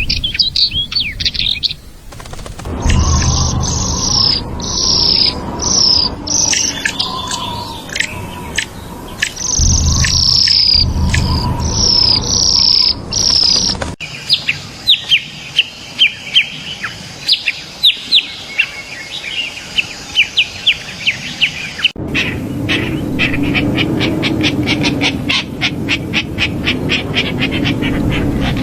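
Purple-throated euphonia (fim-fim) singing: series of high, quickly falling whistled notes. The notes come in a few cut-together recordings, and over the last several seconds they change to a fast run of short ticking notes.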